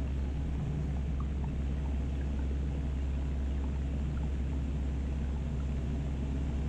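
Steady drone of a Cessna 172's piston engine and propeller in cruise-pattern flight, heard inside the cockpit, low and even with no change in power.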